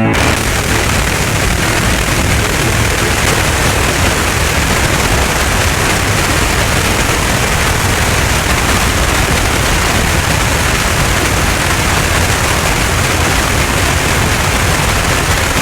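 FM radio receiver giving out a loud, steady rushing noise from a broom-type noise jammer that blots out the station's audio.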